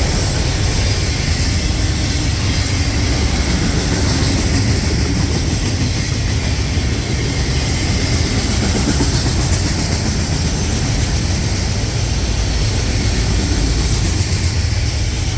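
Freight train rolling past, a steady low rumble of wheels and rail cars that holds even throughout.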